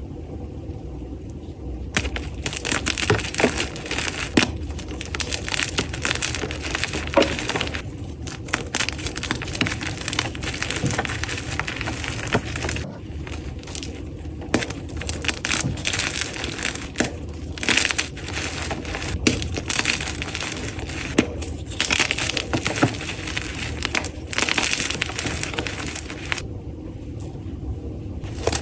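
Blocks of dyed gym chalk being crushed and crumbled, a dense run of crunchy crackles that starts about two seconds in and stops briefly a few times between squeezes.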